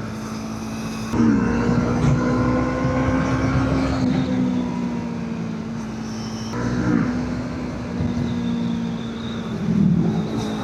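Motorcycle engine running steadily under way, heard from on the bike with wind noise. It gets louder about a second in, and its note dips briefly and recovers about a second in, around seven seconds and near the end.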